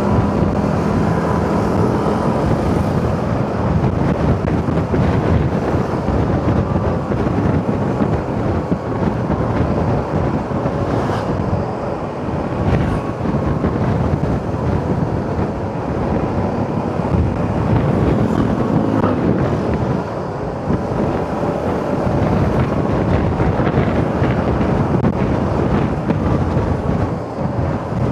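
Wind rushing and buffeting over the microphone of a moving motorcycle, with the engine and road noise running steadily underneath.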